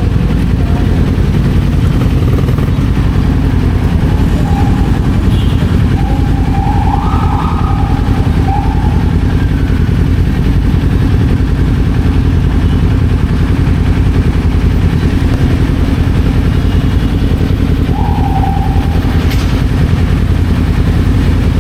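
Kawasaki Z400 motorcycle at speed: its parallel-twin engine running under a steady rush of wind. A couple of short whining tones, one about a third of the way in and one near the end.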